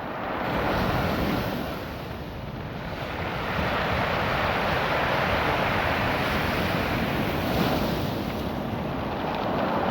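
Ocean surf washing over a beach of small rounded rocks: a continuous rush that swells about a second in, eases briefly, then builds again and holds.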